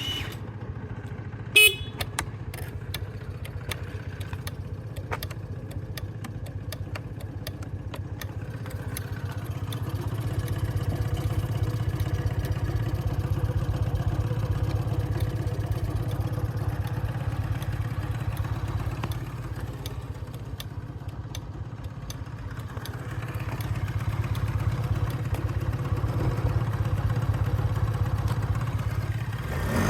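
Honda Super Dio AF27 scooter's 50cc two-stroke single starting at once and running at idle, its speed rising a little twice. A short horn beep about a second and a half in.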